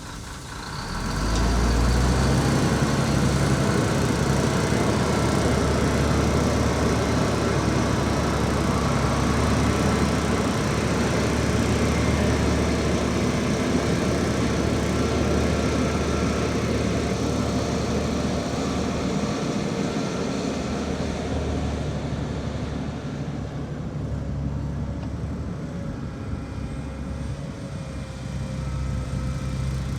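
Heavy diesel engine of earthmoving machinery, revving up about a second in and then running hard and steadily. It eases off a little a few seconds before the end and picks up again.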